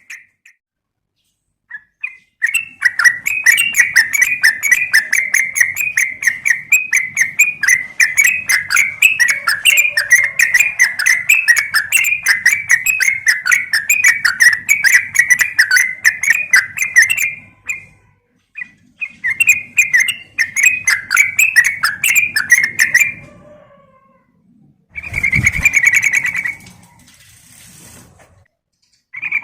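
Yellow-vented bulbul (trucukan) giving fast, chattering call series, used as a lure that the uploader labels a female calling a male. One long run of rapid notes lasts about fifteen seconds, a shorter run follows after a pause, and a brief burst comes near the end.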